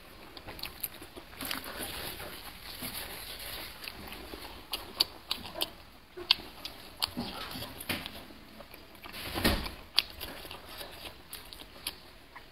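Close-miked eating of wide, slippery spicy noodle sheets in chili oil: chewing and wet mouth smacks with many small sharp clicks throughout. There is one louder, fuller wet burst about nine and a half seconds in.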